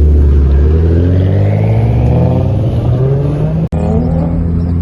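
Twin-turbo Infiniti G37's VQ V6 accelerating hard, its pitch rising steadily for a few seconds. It breaks off for an instant a little under four seconds in, then pulls on at a steadier pitch.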